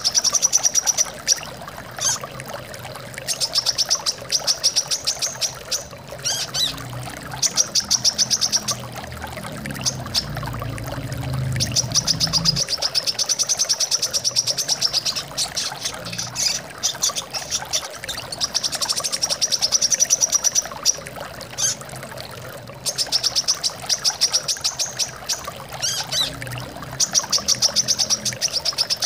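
Brown-throated sunbird (kolibri kelapa) singing: phrase after phrase of fast, high trills, each lasting one to three seconds with short breaks between, over a steady rush of flowing water.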